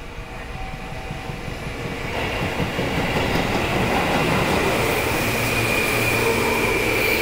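Seibu 2000-series electric commuter train pulling into the station and running close past as it slows: the rumble of its wheels on the rails grows louder over the first few seconds and then holds. A thin high whine slowly falls in pitch as the train slows.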